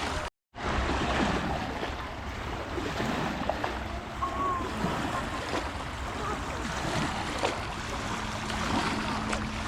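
Wind buffeting the microphone outdoors, a steady rough rumble and rush, broken by a brief dropout to silence just after the start.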